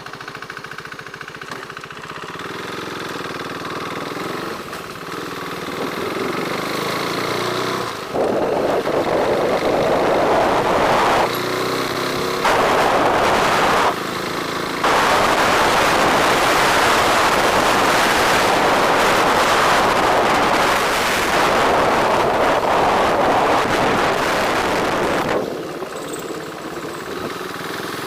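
Motorcycle engine and wind noise while riding, growing louder over the first several seconds as the bike picks up speed, then a loud, steady rush with a few sudden dips, easing off near the end.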